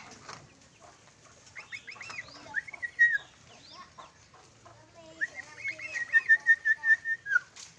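Sooty-headed bulbul (kutilang) calling: a few quick chirps about a second and a half in, then a longer run of rapid repeated notes from about five seconds in that ends on a dropping note.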